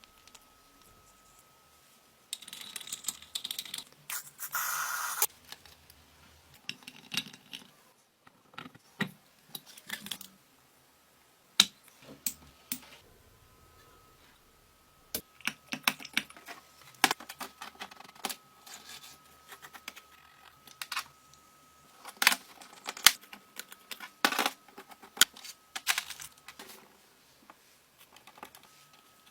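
Small metal parts and hand tools being handled and worked: irregular clicks, taps and scrapes, with a hissing stretch a few seconds in.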